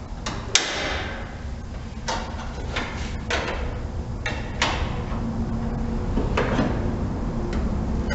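A handful of sharp knocks and clatters, about five spread over several seconds, over a steady low hum.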